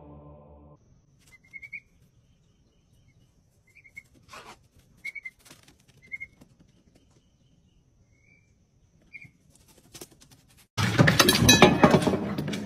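An emu chick's short, high whistled peeps, about six of them spaced a second or two apart, faint against near silence. Near the end a much louder, noisy sound cuts in suddenly.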